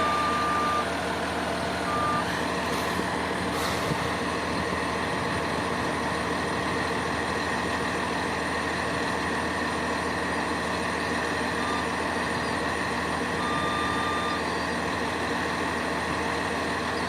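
Crane truck engine running steadily, with a high single-pitch warning beeper sounding briefly at the start, again about two seconds in, and for about a second near the end.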